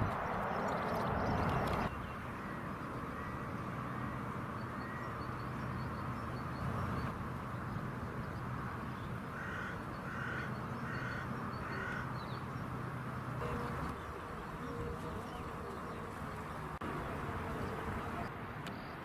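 A crow cawing, about four calls in quick succession midway through, over steady background noise.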